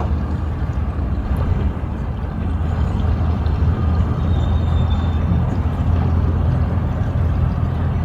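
An engine running steadily, a continuous low hum with no change in speed.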